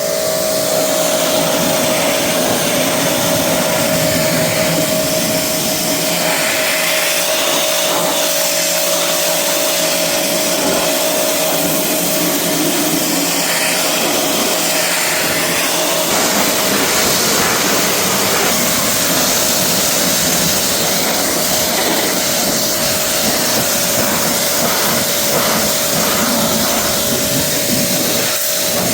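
Pressure washer running steadily: a constant whine under the hiss of the water spray.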